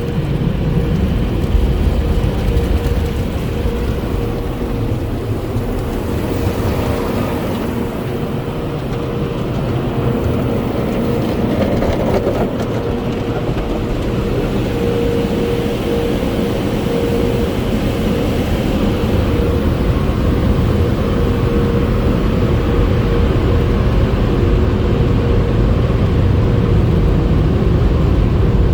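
Car wash tunnel equipment running: a steady mechanical noise with a constant hum, growing louder toward the end.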